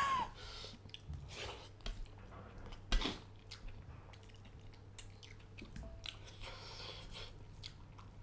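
Close-up mouth sounds of a man eating rice and fish curry by hand: wet chewing and smacking, with small squishy clicks as fingers work the food. A short high-pitched vocal exclamation right at the start is the loudest sound, and a sharper click comes about three seconds in.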